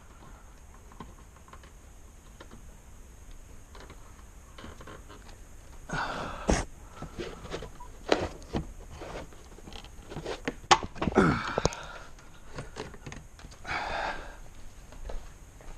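Scattered clicks, knocks and scraping of plastic interior trim in a Subaru XV being worked loose by hand, with a short creak a little after eleven seconds in.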